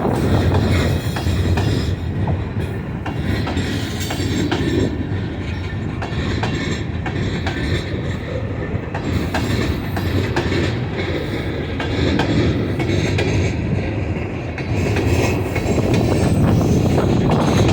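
Railcars of a passing train rolling by, wheels clicking steadily over the rail joints over a continuous rumble.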